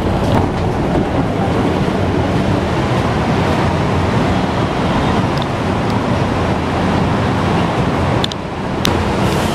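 Philippine National Railways diesel train running: a loud, steady rumble with a low engine drone under it. The sound dips briefly and changes about eight seconds in.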